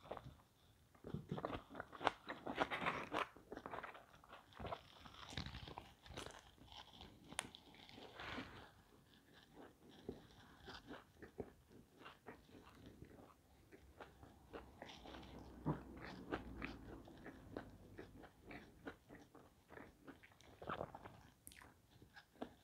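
A person biting and chewing thin-crust pizza close to a clip-on microphone: irregular soft crunches and mouth sounds.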